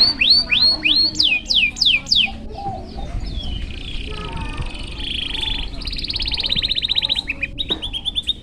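Domestic canary singing: a string of repeated falling whistled notes, then a fast rolling trill from about three and a half seconds in, and more falling notes near the end.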